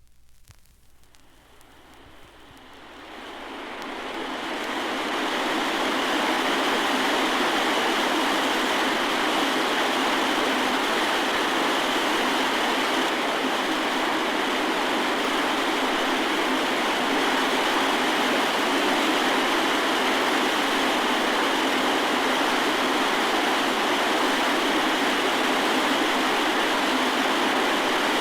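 A steady rushing noise that fades in over the first five seconds or so, then holds even.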